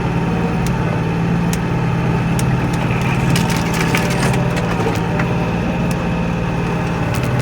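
Kioti NX4510 compact tractor's diesel engine running steadily while it works through deep snow, with scattered sharp clicks and cracks throughout.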